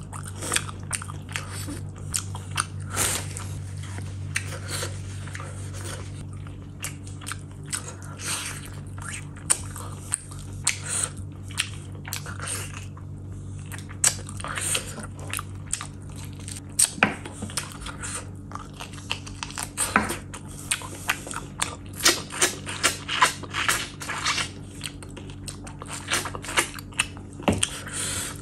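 Close-miked chewing and lip-smacking of mutton curry and rice eaten by hand: a rapid run of wet clicks and smacks, growing busier about halfway through. A steady low hum sits underneath.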